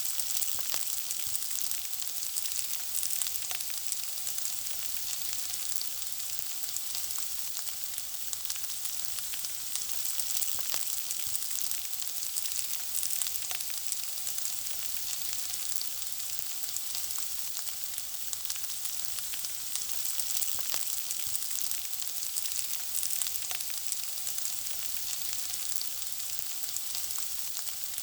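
Food frying in hot oil: a steady high sizzle with a constant scatter of small crackles and pops.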